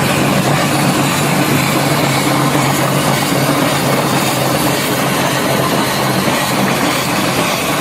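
Steady, loud running noise of a moving vehicle, with a low hum underneath that holds even throughout.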